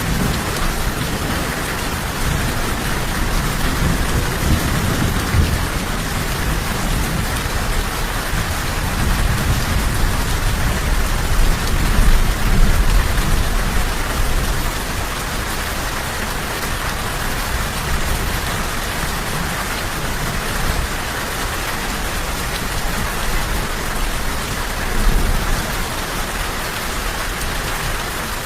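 Steady rain falling, an even hiss, with low rolling thunder rumbling underneath that swells a few times, loudest about halfway through.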